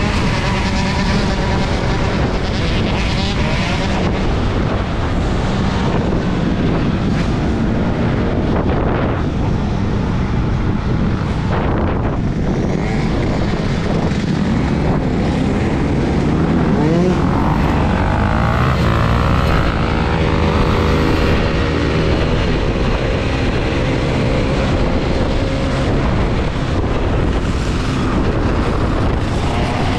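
Steady wind rush and road noise on a helmet-mounted action camera while riding an electric dirt bike in traffic, with the pitched sound of passing vehicles; one pitch rises about 17 seconds in.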